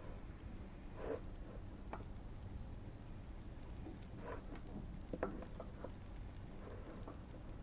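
Typing on a modded Keychron Q1 mechanical keyboard: scattered, irregular keystrokes rather than a fast run, over a faint fireplace crackle.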